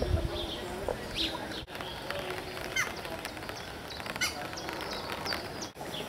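Scattered short, high bird chirps, several of them falling quickly in pitch, over a low background murmur, with a dull low thump right at the start.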